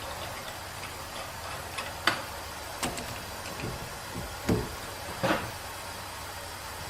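Four short knocks, spread about a second apart, over a steady low hum.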